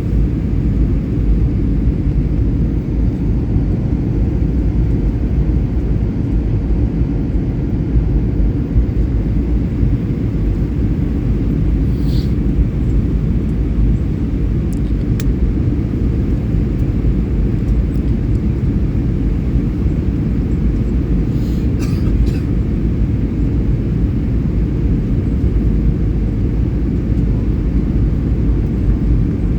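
Steady low roar of a jet airliner in flight, its engines and rushing air running at an even level, with a few brief clicks near the middle.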